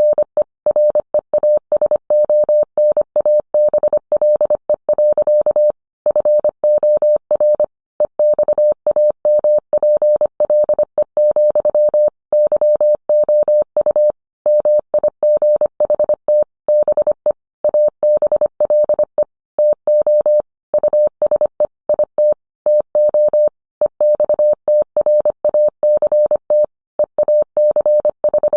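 Morse code sent as a single mid-pitched beep tone keyed on and off quickly in dots and dashes, with short pauses between words.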